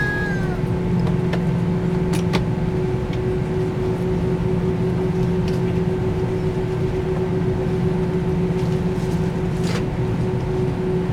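Steady hum of an airliner cabin, its ventilation and engines making a constant drone with a held low tone. A few faint clicks come about two seconds in and again near the end.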